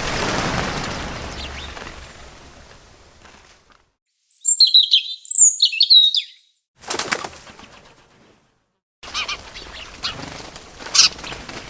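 Bird wings flapping in a rush that fades over about three seconds, then after a silence a few short, high, falling chirps. A brief flutter follows, and from about nine seconds in, scattered bird chirps over a background hiss.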